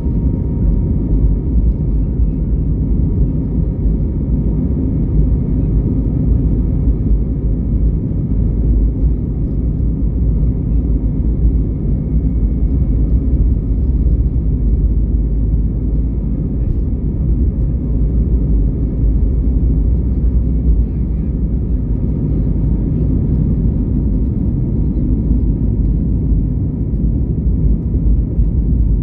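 Steady cabin noise inside an Airbus A320neo: a constant low rumble from the engines and airflow, with a faint steady whine above it.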